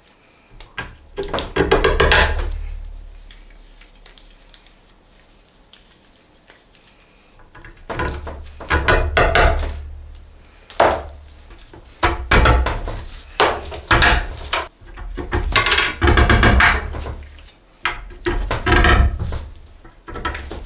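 Metal rods and wooden ladder parts being handled and fitted together: a run of knocks and clattering of wood and metal, one bout about two seconds in, then repeated bouts every second or two through the second half.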